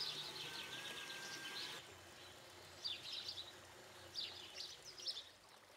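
Faint birds chirping, with short high chirps coming in about five small clusters, over a faint low hum that drops away about two seconds in.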